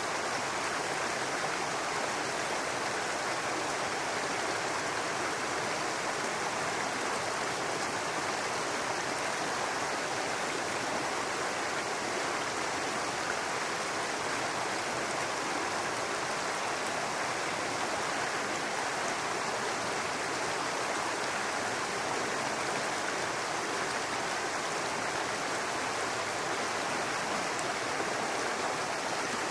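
Brook water running and babbling steadily over rocks, an even rushing with no distinct events.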